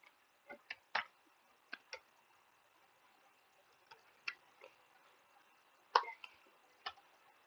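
Computer keyboard keys being typed in short irregular runs, about a dozen sharp clicks with pauses between, over a faint steady hiss.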